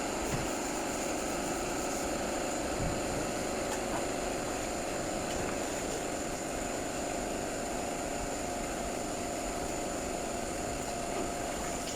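A machine running steadily: a continuous even hum with a steady high whine, with no change in pace or pitch.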